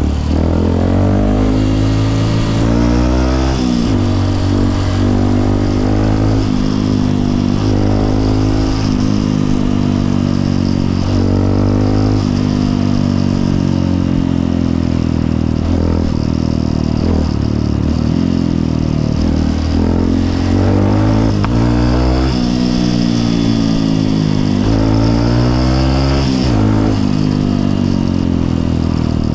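Honda CRF150L's single-cylinder four-stroke engine under way, its pitch climbing with the throttle and dropping at each gear change, again and again through the stretch.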